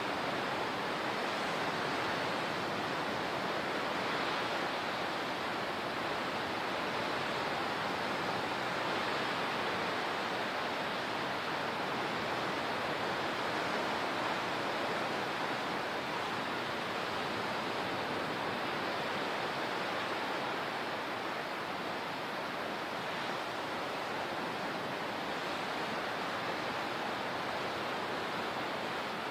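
Steady rushing water: an even, unbroken hiss of moving water with no distinct wave breaks.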